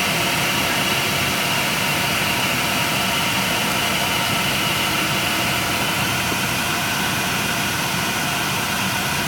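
Steady drone of an airliner cabin, with engine and air-conditioning noise running at an even level.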